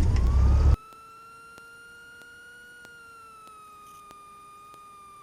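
1977 Cessna 150's engine running loud just after catching, cut off suddenly under a second in. What remains is a steady high electrical whine that falls slightly in pitch, with faint regular ticks.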